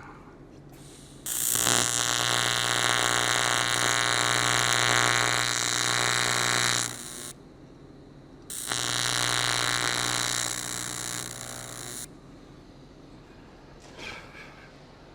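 Welding arc on an aluminium fuel tank, buzzing steadily with a low hum and hiss in two runs: one of about six seconds, then after a short pause one of about three and a half seconds, each starting and stopping abruptly.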